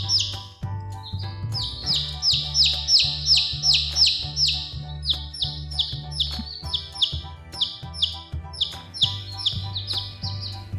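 Baby chicks cheeping: a steady run of short, high-pitched peeps, each falling in pitch, about three a second, with brief gaps, over background music with low steady notes.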